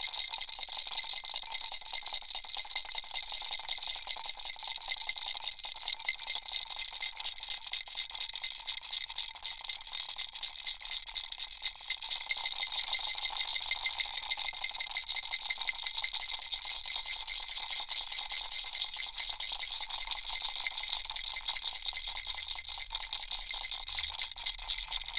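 Turtle-shaped baby rattle shaken without pause, giving a dense, rapid clatter of fine rattling with a faint steady ringing tone underneath.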